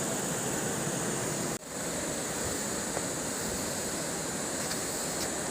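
Steady rushing noise with a high, steady insect drone above it. The sound cuts out briefly about a second and a half in, then returns.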